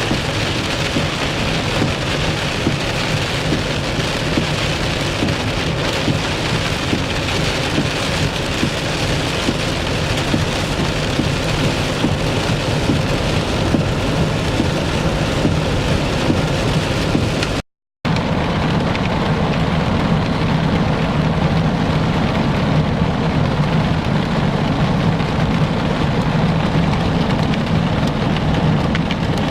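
Heavy thunderstorm rain pouring down steadily and hard, with a steady low hum beneath it. The sound cuts out for a moment a little over halfway through.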